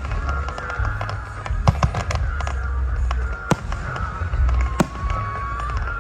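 Fireworks going off at a display: several sharp bangs, the clearest about three and a half seconds in, over music and a steady low rumble.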